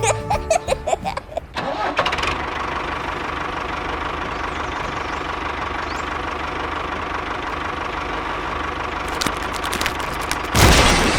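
An engine starts up and runs steadily, with a sudden louder burst of noise near the end.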